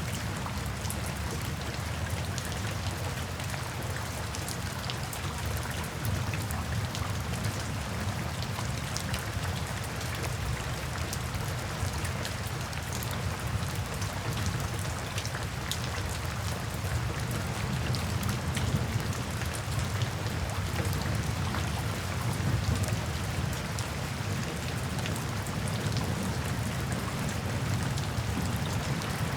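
Steady rain pattering, with fine drop ticks over a low rumble of distant thunder. The rumble swells slightly about two-thirds of the way through.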